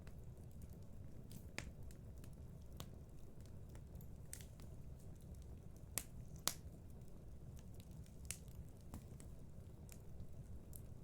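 Wood fire burning in a fireplace, with a steady low rumble and irregular crackles and sharp pops. The two loudest pops come about six seconds in, half a second apart.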